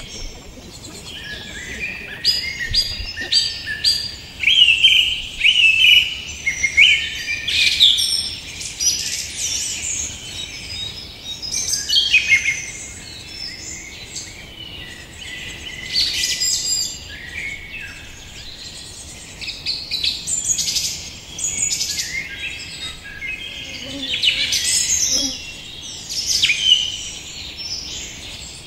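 Several songbirds chirping and singing: many short, high calls and quick pitch slides that overlap and come in louder bouts every few seconds.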